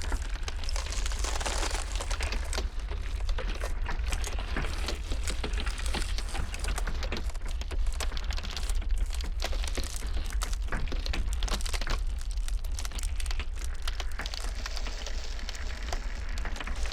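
Ice cracking in dense, irregular crackles and snaps, over a steady low rumble.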